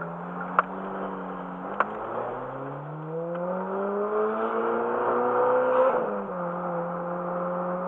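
Ferrari F430's V8 engine idling, then revved slowly and smoothly upward for about four seconds before dropping back to a steady idle. Two sharp clicks come in the first two seconds.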